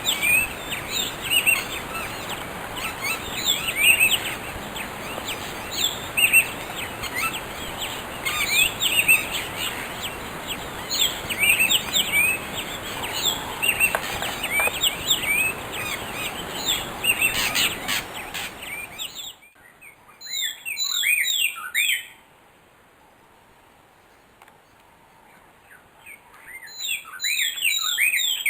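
Dawn chorus of many African birds chirping and calling over one another against steady background noise. About two-thirds of the way in it cuts abruptly to a quieter recording of quick, falling chirps, in two bouts a few seconds apart.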